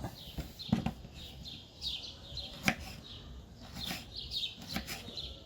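A folding knife slicing ginger on a cutting board, with a few separate sharp knocks of the blade on the board, while birds chirp in short repeated calls.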